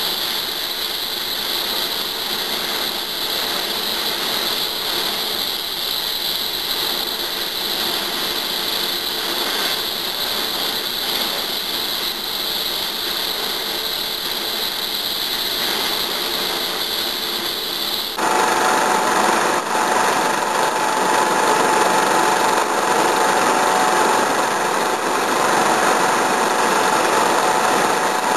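Eurocopter AS365 Dauphin helicopter's twin turbine engines and rotors running steadily, with a constant high whine. About two-thirds of the way through, the sound changes abruptly to a louder, harsher run with a steady, lower whine.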